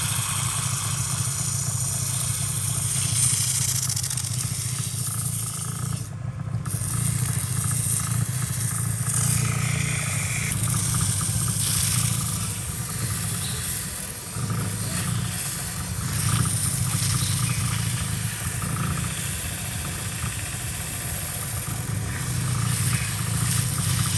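Electric power sander running steadily while sanding, its low motor hum wavering slightly in level as it is worked across the surface.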